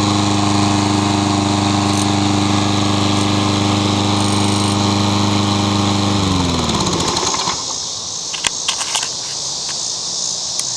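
Yard Machines push mower's Briggs & Stratton engine running steadily, warmed up. About six seconds in it is shut off and winds down to a stop, its pitch falling.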